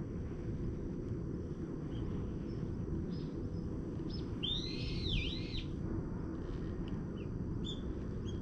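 A songbird calls about four seconds in, a quick run of rising and falling notes lasting about a second, with a few short chirps before and after, over a steady low rumble.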